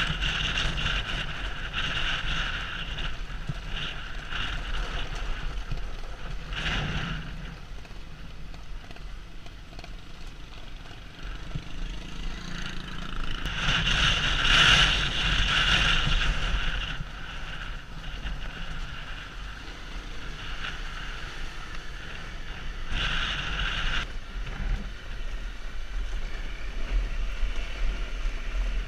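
Honda CRF250L single-cylinder motorcycle engine running under way, with wind buffeting the microphone. The sound grows louder about halfway through, then eases off.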